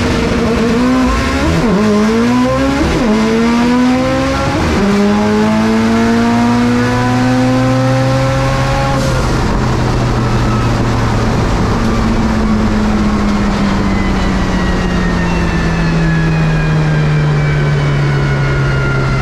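Turbocharged flat-four engine of a 2007 Subaru STI drag car, heard from inside the cabin on a full-throttle run. It launches about a second in and climbs through the gears, with three quick manual shifts in the first five seconds, then pulls hard until about nine seconds. The driver then lifts off, and the engine note and a thin whine fall slowly as the car coasts down.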